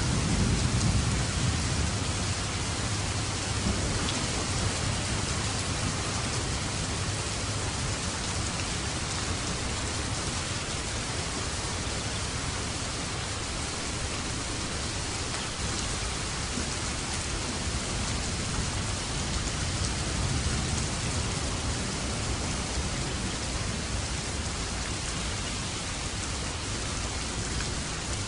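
Steady rain falling in an even hiss, with a low rumble of thunder in the first couple of seconds.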